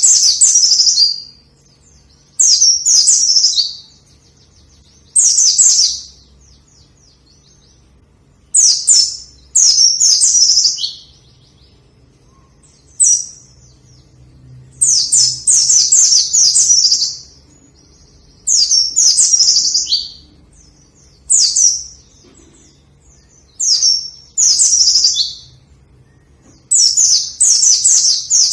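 A pleci (white-eye) singing energetically: short, rapid, high-pitched song phrases, each about a second long, repeated every two to three seconds.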